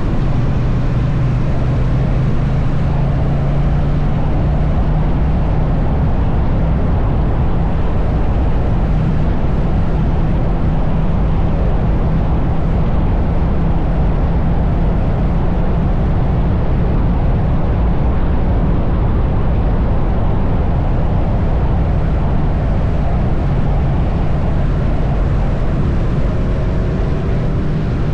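Triumph Bonneville T100's parallel-twin engine running steadily at highway cruising speed, with rushing wind and road noise.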